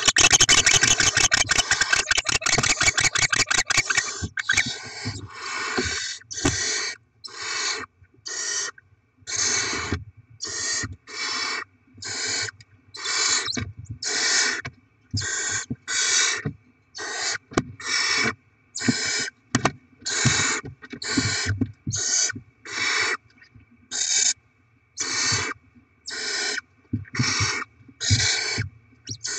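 Barn owl chicks begging for food: short raspy hisses repeated about once a second. The first four seconds hold a louder, denser rasping stretch.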